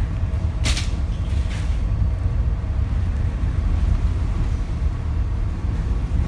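A steady low rumble, with two brief hisses near the start.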